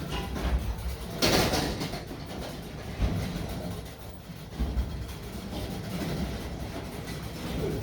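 Rumbling and rattling of garage-door hardware being worked, with a loud scraping burst about a second in and a couple of sharp metal knocks later.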